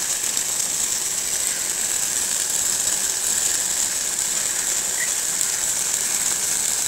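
Tomato chicken curry sizzling and bubbling in a pan on the stove: a steady, even crackling hiss.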